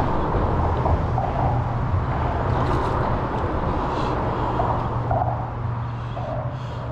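A steady engine drone with a low hum, loudest in the first few seconds and fading toward the end.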